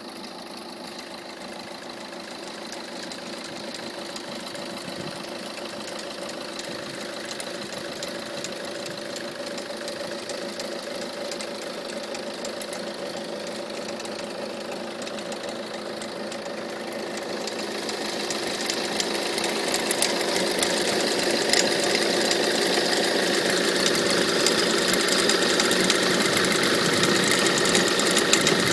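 Peugeot 307 HDi 2.0 four-cylinder diesel engine idling with a fast clattering, which the owner thinks comes from the alternator, its pulley or the tensioner roller. The sound grows louder from about seventeen seconds in.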